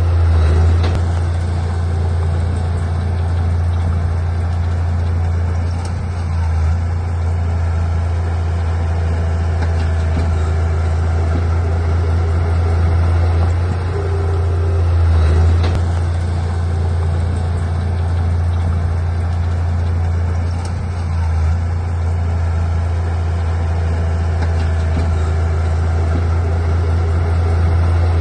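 Heavy diesel engine of earthmoving machinery running steadily with a loud low drone, swelling slightly now and then as the engine works.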